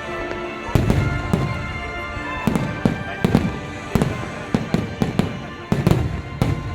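Fireworks bursting overhead in a quick, irregular series of loud bangs, about two a second. Music with steady held notes plays underneath.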